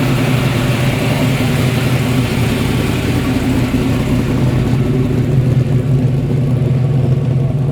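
Car engine idling steadily, a constant low engine note.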